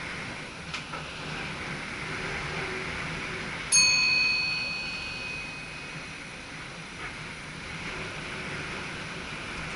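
A single bell chime sounds once about four seconds in, a clear multi-tone ding that rings and fades over about two seconds. It sits over the steady hum of an SGM Sprinter electric train's cab.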